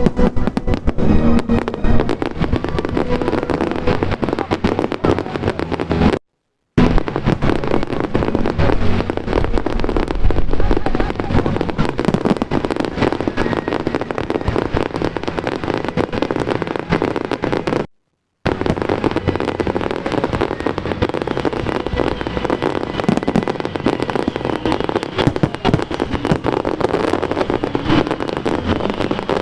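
A fireworks display crackling and popping, with many small bursts in quick, dense succession and music playing underneath. The sound cuts out completely twice, for about half a second each time.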